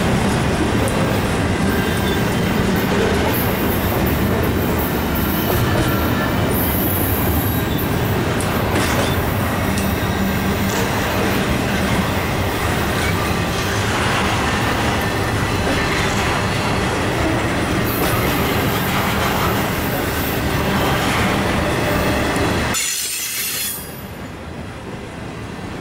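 Intermodal freight cars (double-stack well cars and trailer flatcars) rolling past close by: a steady loud rumble of steel wheels on rail with high-pitched wheel squeal now and then. The noise drops suddenly about 23 seconds in.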